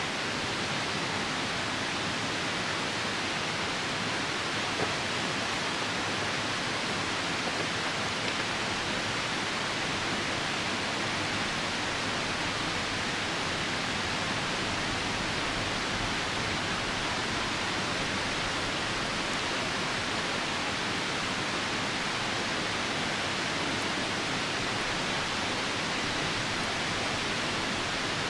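Steady, even rushing of a nearby river mixed with rain, a dense hiss that does not change. A couple of faint brief pops stand out about five and eight seconds in.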